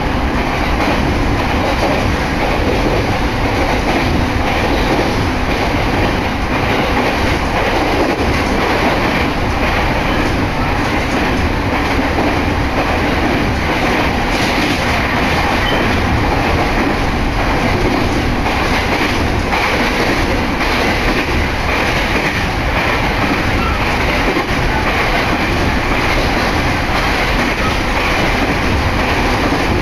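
Steady running noise of a JR Narita Line electric train, heard from inside the moving car: wheels rolling on the rails.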